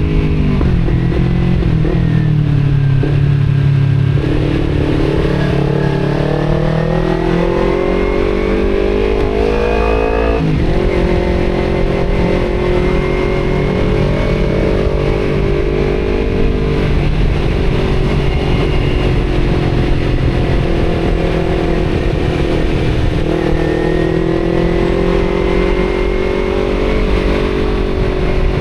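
Kawasaki Z250 parallel-twin engine through an Akrapovic exhaust, heard from the rider's seat under way. The engine revs up, drops sharply at a gear change about ten seconds in, holds fairly steady, then climbs again near the end.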